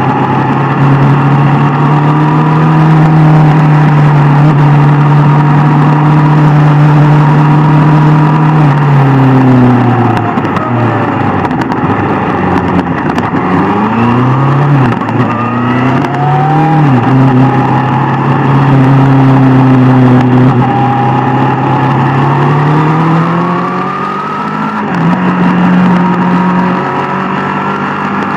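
Sport motorcycle engine running at a steady cruise; around the middle its pitch falls as the bike slows, then rises and falls a few times before settling back to a steady run.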